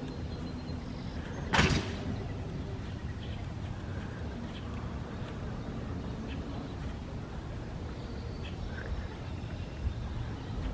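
Faint short bird calls scattered over a steady low background rumble, with one sudden brief noise about a second and a half in.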